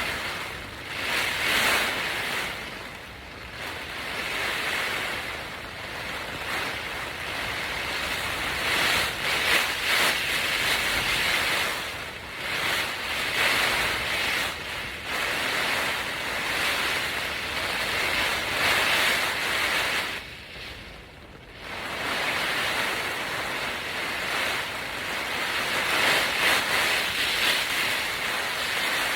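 Strong storm wind blowing in gusts, swelling and easing every few seconds, with a brief lull about twenty seconds in.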